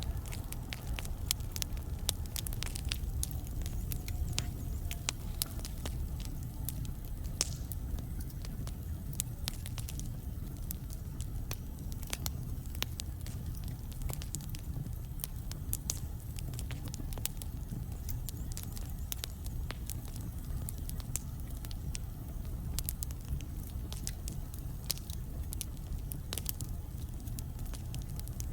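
Wood fire burning logs in a fireplace: a steady low rumble of flames with frequent sharp crackles and pops, and a faint falling whistle in the first few seconds.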